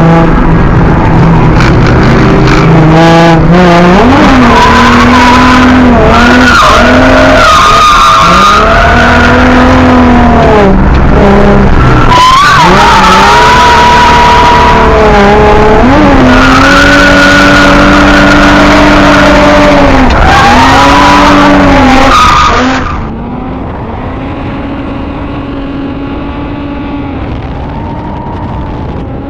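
A car engine revving hard in a drift run, its pitch climbing and falling again and again with gear changes and throttle lifts, over tyres skidding on the track. The sound is very loud throughout and turns suddenly quieter about 23 seconds in, where the engine keeps revving up and down more softly.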